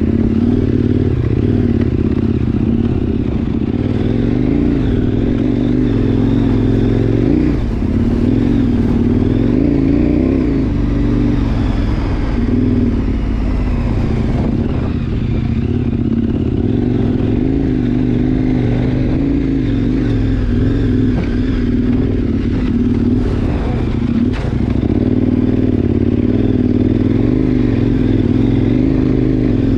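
KTM 1090 Adventure's V-twin engine running at low, varying revs as the motorcycle rides slowly over gravel and dirt, the pitch rising and falling with the throttle. A few short knocks come about three-quarters of the way through.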